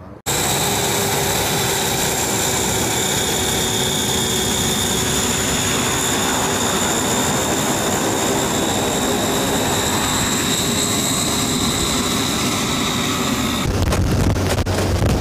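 Steady drone of aircraft engines in flight, with a constant high-pitched whine over a rushing noise. About 13.5 seconds in it switches abruptly to a deeper, rougher rush.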